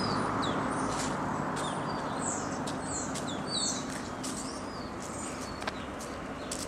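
Small birds chirping and twittering in the trees: many short, high chirps and quick sweeping whistles, one after another. Under them runs a steady rushing background noise, a little louder at the start.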